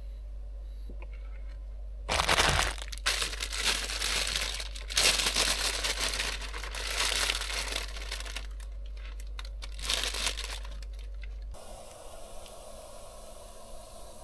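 Crinkling and tearing handling noise in irregular bursts for about nine seconds, starting about two seconds in; near the end it stops and gives way to a steady, even hiss.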